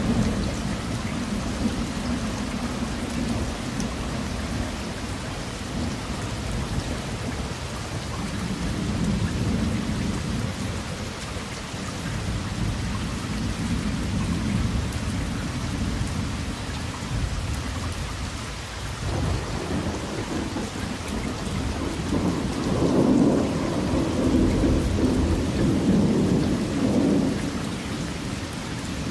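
Steady heavy rain with thunder rumbling low under it in slow swells. The loudest roll of thunder comes about three-quarters of the way through and lasts several seconds.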